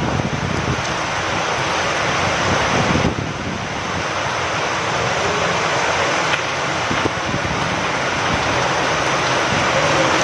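Steady rain falling, with wind, making an even, dense hiss.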